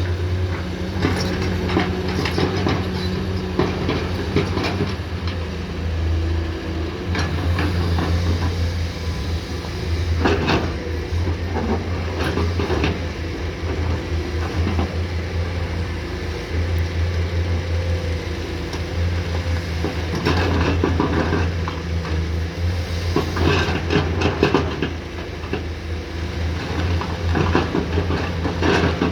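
Komatsu PC210 excavator's diesel engine running steadily at working revs, with repeated metallic clanks and rattles from the bucket and machine as it works.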